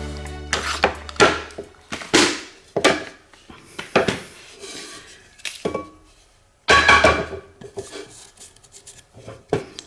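Small Energer pillar drill's motor hum fading out over the first second or two. A series of sharp metallic clinks and knocks follows, with a louder clunk about seven seconds in.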